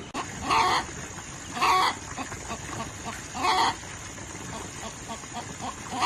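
Chicken calling: three short calls spaced a second or two apart, with another starting right at the end.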